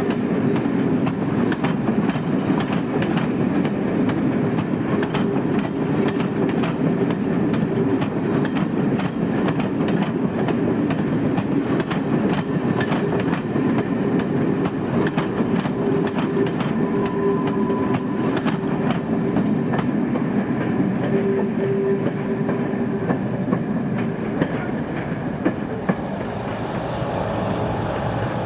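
A train running along the line, its wheels clicking rapidly and continuously over the rail joints, with a steady tone beneath; it eases off a little near the end.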